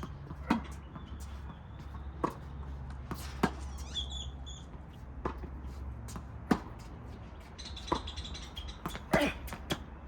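Tennis rally: sharp pops of the ball off racket strings and bounces on the court, about eight in all, roughly one a second, over a low wind rumble on the microphone.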